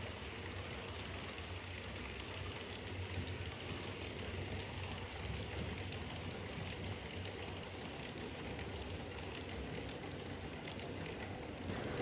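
Model train running on a layout: a steady low motor hum with faint clicking of wheels on track.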